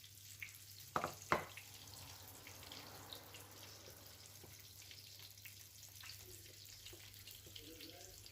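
Flour-and-egg-coated whiting fillets frying in hot oil in a pan: a faint, steady sizzle with small crackles. Two sharp knocks about a second in.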